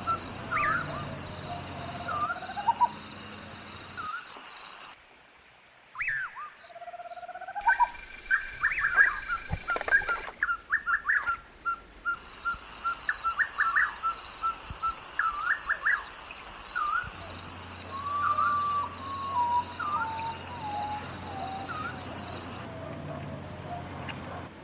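Wild birds calling and singing: short whistled calls, with a run of quick repeated notes in the middle, over a steady high-pitched buzz. The sound drops out briefly twice.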